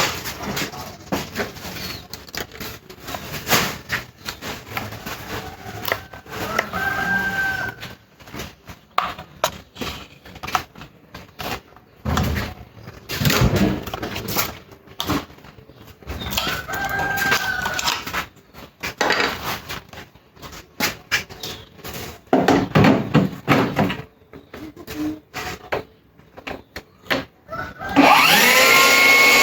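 Irregular clicks and knocks of handling, with a rooster crowing twice in the background, at about 7 and 17 seconds. Near the end the DeWalt cordless table saw's motor spins up and settles into a loud steady whine.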